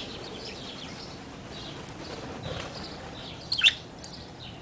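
Budgerigars chirping, mostly faint chatter with one loud, sharp chirp about three and a half seconds in.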